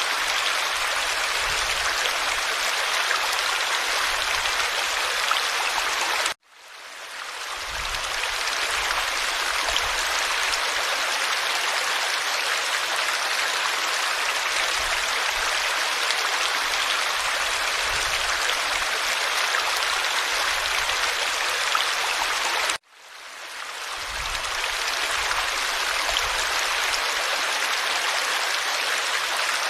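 Forest stream flowing steadily, a dense rushing and babbling of water. The sound cuts out suddenly twice, about six seconds in and again some sixteen seconds later, each time fading back in over a second or so.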